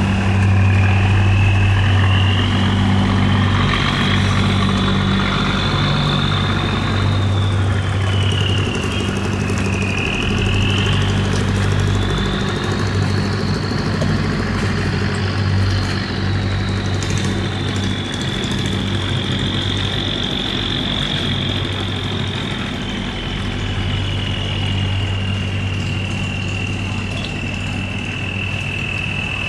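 Boat engine running steadily, a deep hum under a high whine that drifts slowly up and down in pitch.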